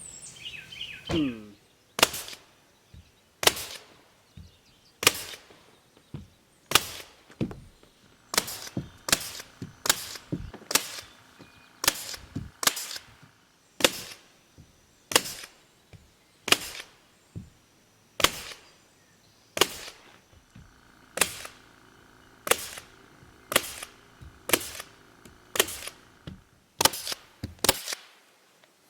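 Hand hammer blows, one sharp strike at a time, landing about once a second with uneven gaps, in a long run of roughly thirty strikes. They are fastening roofing down on the roof of a log lean-to.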